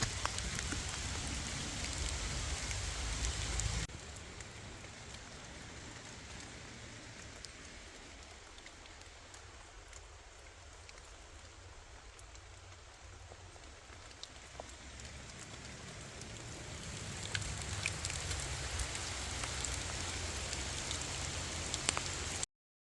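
Steady rain falling, with a few single drips ticking close by. The sound drops abruptly to a softer level about four seconds in, swells again toward the end, then cuts off suddenly.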